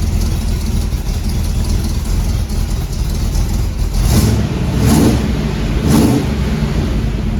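350 small-block Chevy V8 running steadily, with three short revs about a second apart after the middle.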